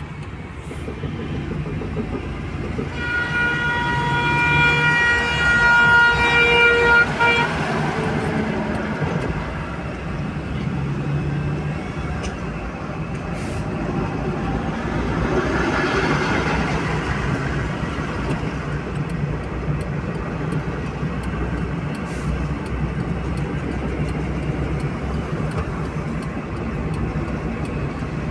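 Car driving on a highway: steady engine and road noise, with one long vehicle horn blast that starts about three seconds in and is held for about four seconds.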